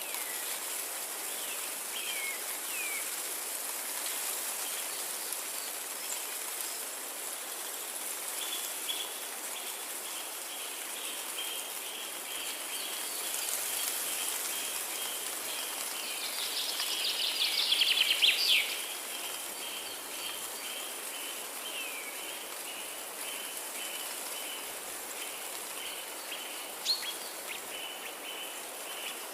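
Forest ambience with songbirds calling over a steady high hiss: a long run of short, evenly repeated chirps, and a louder burst of song about two-thirds of the way through. There is a single sharp click near the end.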